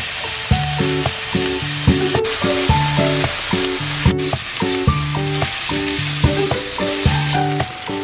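Chicken pieces and broccoli sizzling in a frying pan, a steady hiss, under background music with a repeating bass line.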